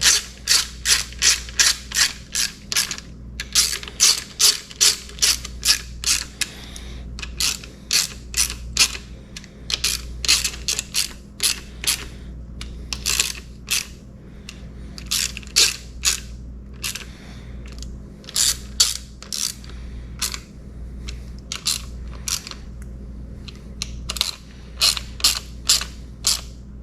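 Hand ratchet wrench clicking in quick runs of about four clicks a second, with short pauses between runs, as bolts are run back in by hand rather than with an impact wrench.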